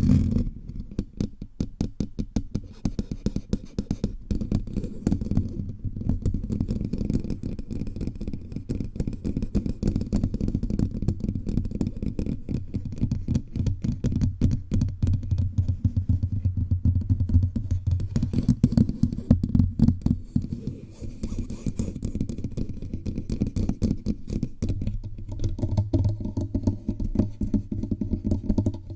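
Fingertips tapping rapidly on the body of a bare microphone, a fast continuous run of dull, bass-heavy thumps picked up directly by the mic.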